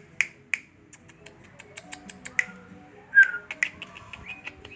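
A small sogok ontong songbird giving a run of short, sharp chip calls, several a second, with one louder falling chirp about three seconds in, over soft background music.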